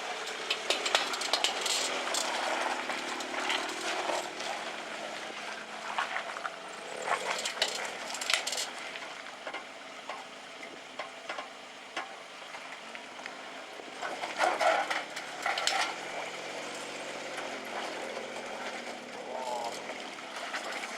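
Suzuki Jimny JB23 off-roader crawling over rocks, its small 660 cc three-cylinder engine faint and rising and falling in revs under a steady crackle and scattered knocks of tyres and body on rock and brush.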